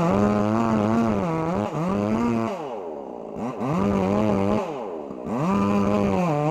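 Two-stroke chainsaw running at high revs. Twice the throttle is let off so the engine drops toward idle, about two and a half seconds in and again near five seconds, then it is revved back up.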